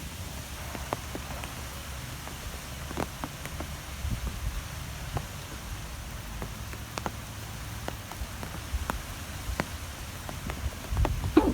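Wind ambience: a steady low rumble of wind with scattered sharp ticks throughout, and a louder brief sound near the end.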